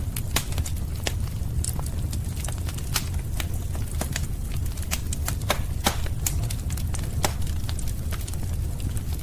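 Wood fire of burning logs, a steady low rush of flame with frequent irregular sharp crackles and pops.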